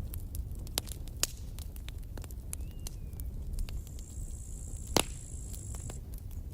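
Campfire burning: wood crackling with scattered sharp pops over a low steady rumble, the loudest pop about five seconds in. A high thin hiss starts a little before that pop and stops about a second after it.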